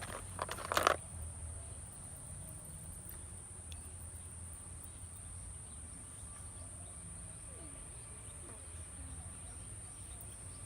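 A steady high-pitched trill of insects chirping in the background, unbroken throughout. About a second in there is a brief clatter of handling noise.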